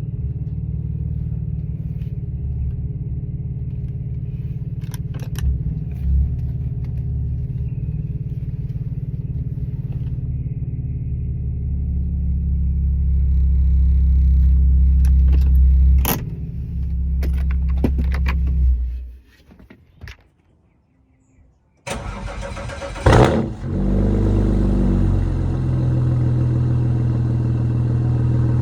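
BMW N54 twin-turbo inline-six, run through catless downpipes with the secondary cats and muffler deleted, idling with a steady deep exhaust drone. About nineteen seconds in it cuts out, and after two seconds of near silence it starts up again with a sudden loud burst and settles back into a steady idle.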